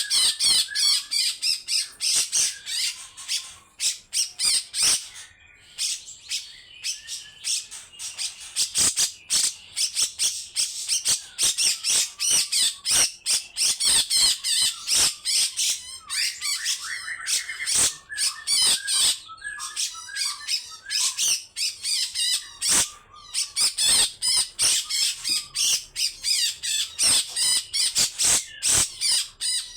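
Grey-cheeked bulbul (cucak jenggot) giving long, rapid runs of harsh, rasping calls, with short lulls about five seconds in and again past twenty seconds.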